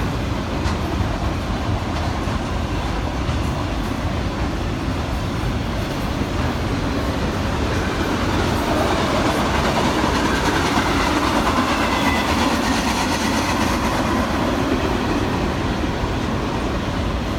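A train's cars rolling past, wheels running steadily on the rails, growing somewhat louder through the middle.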